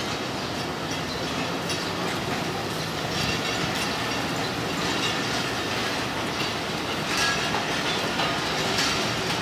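Pakistan Railways passenger coaches rolling past close by: a steady rumble of the wheels on the track, with irregular clacks as they cross rail joints.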